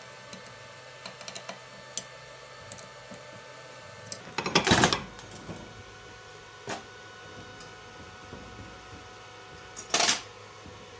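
Workshop handling noise: scattered clicks and clinks of small hard parts and tools, with two louder, brief clattering bursts about four and a half and ten seconds in, over a faint steady hum.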